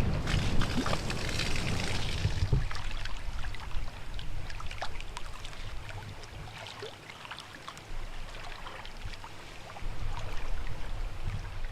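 Wind buffeting the microphone for the first couple of seconds, then small lake waves lapping and trickling with scattered little splashes.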